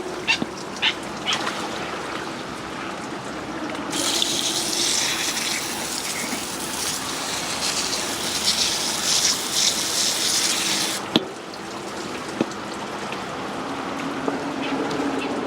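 Running, splashing water, louder and brighter for several seconds in the middle, with a few sharp clicks or knocks.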